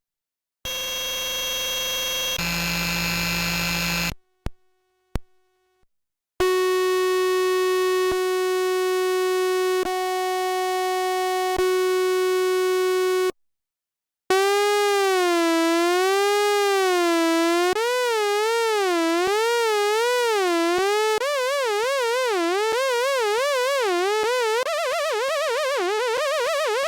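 Synthesizer tones from the Caustic 3 app, played one after another. First a buzzy tone that shifts pitch partway, then a few clicks. Then a steady held note restruck every couple of seconds, and finally a note with vibrato that gets faster and faster.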